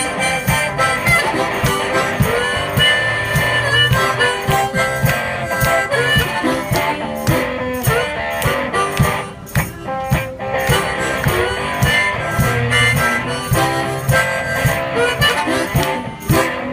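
One-man band playing an instrumental blues-style passage: harmonica carrying the melody over guitar, with a steady percussion beat.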